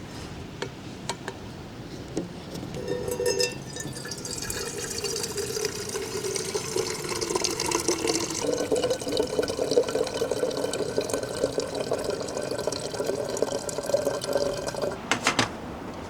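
Water poured in a steady stream into a container, its filling tone rising slightly as the vessel fills. The pour stops about fifteen seconds in with a couple of sharp clacks.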